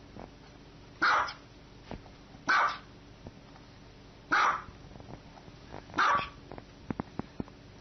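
Small white dog barking four single barks, about one every one and a half seconds, with a few faint clicks between the last two.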